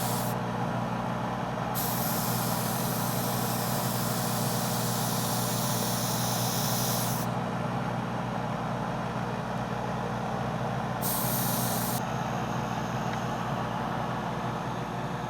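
Airbrush compressor running with a steady hum while paint is sprayed through an airbrush in bursts: a long spray hiss of about five seconds, then a short one of about a second.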